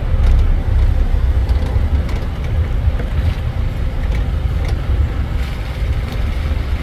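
Engine and road noise of a moving tuk-tuk, heard from on board as a steady low rumble.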